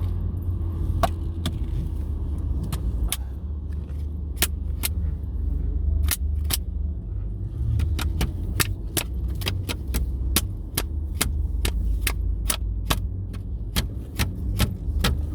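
Car interior while driving: a steady low engine and road rumble, with many sharp clicks and ticks that come more often in the second half, at about two to three a second.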